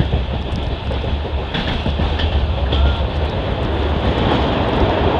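Express passenger train running at speed: a steady, loud rumble of the coach wheels on the track, with a few light clacks.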